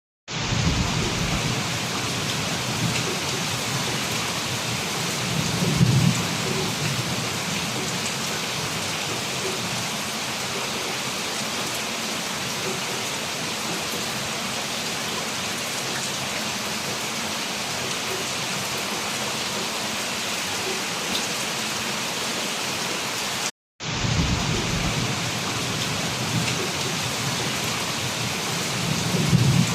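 Heavy rain pouring down in a dense, steady hiss. A low rumble swells briefly about six seconds in and again near the end. The sound cuts out for a moment about two-thirds of the way through.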